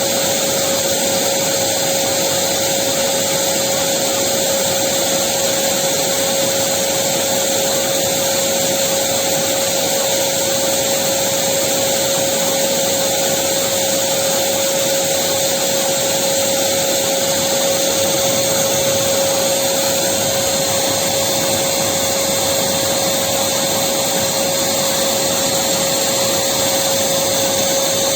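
Electric vacuum cleaner running continuously, a steady rushing whir with a constant whine under it.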